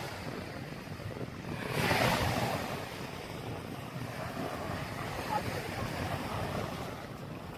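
Small waves washing up on a sandy beach, one surging louder about two seconds in, with wind buffeting the microphone.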